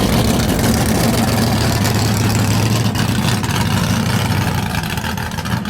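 A vehicle engine idling steadily, a loud low rumble that grows quieter near the end.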